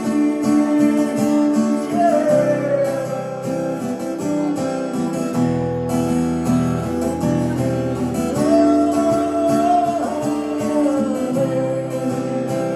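Two acoustic guitars strumming and picking a slow chord progression, with the singer drawing out a wordless "yeah" about two seconds in and holding another sung note a few seconds later.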